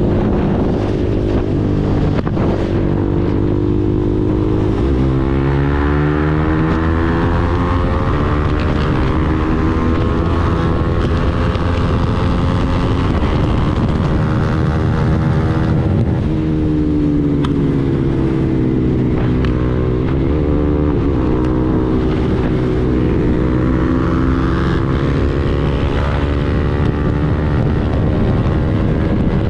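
KTM Duke 390's single-cylinder engine through an Arrow full-system exhaust, running hard at highway speed. Its pitch climbs and falls several times as the revs change, with a gear change about five seconds in. Wind buffets the microphone.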